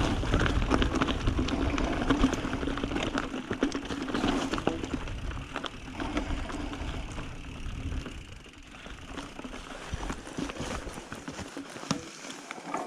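Mountain bike ridden over a rocky trail: tyre rumble and rattling clicks of the bike over rock, dropping off to quieter scattered clicks after about eight seconds.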